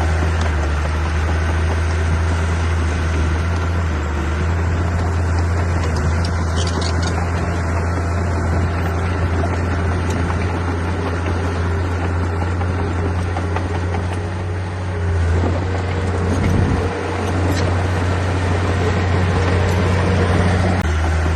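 Heavy diesel engine running steadily with a low, even drone, wavering briefly about three quarters of the way through.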